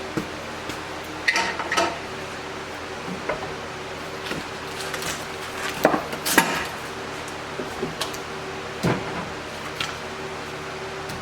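Scattered metallic clinks and knocks, about a dozen, the loudest around the middle, over a steady low hum.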